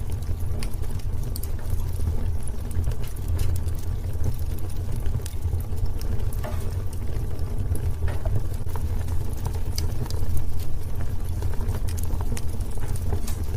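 Wood fire burning in a fireplace: frequent small, irregular crackles and pops over a steady low rumble of the flames.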